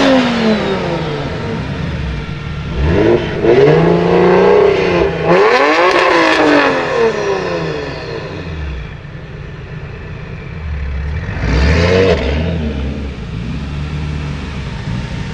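Lamborghini Huracan LP610-4's naturally aspirated V10 through a Frequency Intelligent aftermarket exhaust, revving in several rising and falling sweeps. It settles lower for a few seconds past the middle, then gives one more short rev.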